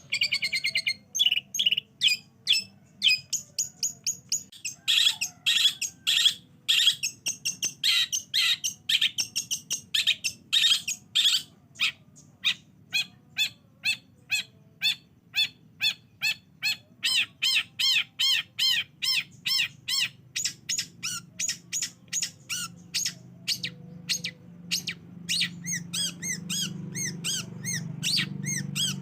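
Long-tailed shrike (cendet) singing a fast, unbroken string of short, sharp chirps, two to three a second, changing in pitch from note to note. This is a lure recording played to set caged shrikes singing. A low hum grows under the song near the end.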